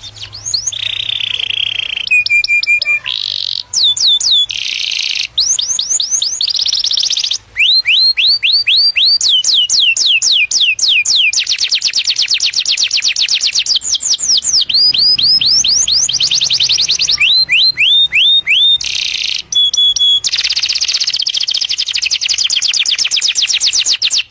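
Canary singing its courtship song: a continuous fast run of trills. Phrases of quickly repeated down-sweeping notes alternate with buzzy rolls, and the tour changes every second or two.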